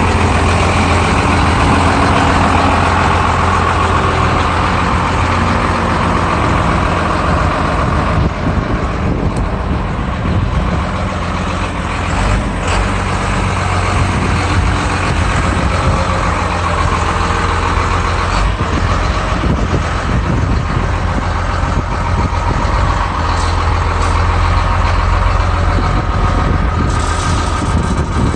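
Water truck's engine running steadily and loudly, with a deep hum under a broad rushing noise, and a few brief clicks along the way.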